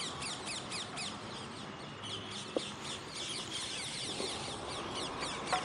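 A flock of parrots chirping continuously, many short falling chirps overlapping several times a second. A brief click sounds about halfway through and another near the end.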